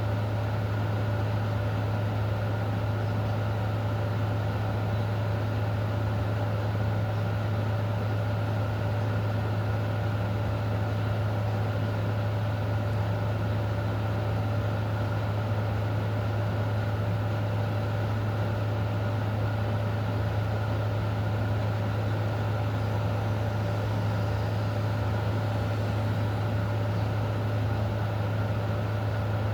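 A steady, unchanging low mechanical hum with a fainter constant higher tone, over an even hiss.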